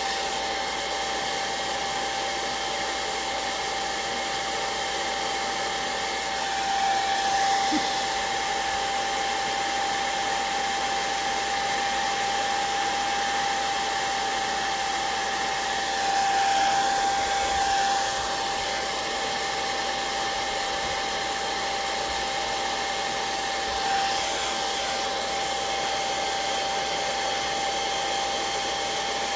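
Hair dryer running steadily, a rushing blow with a constant whine, swelling louder briefly about seven seconds in, again around sixteen to eighteen seconds, and near twenty-four seconds.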